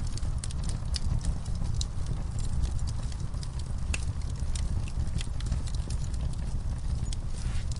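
Wood fire in a fire pit, logs and coals crackling with many sharp, irregular pops over a steady low rumble.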